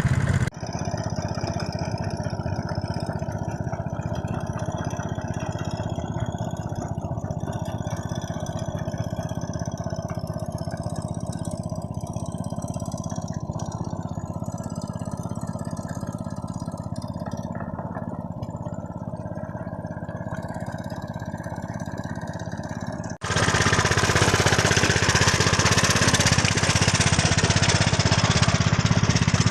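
Engine of a two-wheel hand tractor running steadily while it levels a field. About three quarters of the way through, the sound cuts abruptly to a louder, harsher run of the engine.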